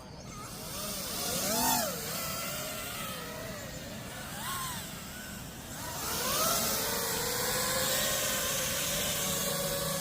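Electric motor and propeller of a 12-foot-wingspan foam RC Cub airplane under power on its takeoff and climb-out. The whine swings up and down in pitch a few times, then settles into a steadier tone that rises slowly.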